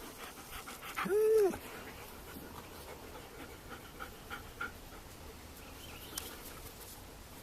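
A dog gives one short whine that rises and falls, about a second in, then pants faintly.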